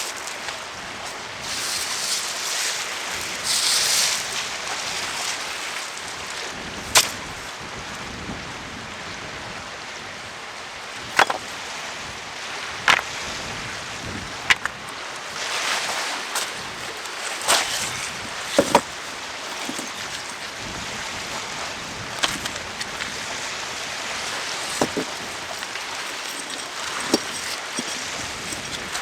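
Steady wash of wind and waves along a shoreline, swelling now and then, with about ten sharp knocks or clacks scattered a second or few apart.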